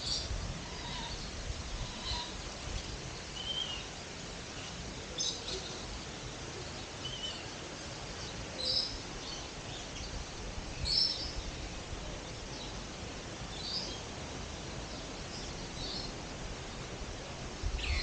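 Birds chirping here and there, short high calls every second or two, over a steady background hiss. The loudest call comes about 11 seconds in.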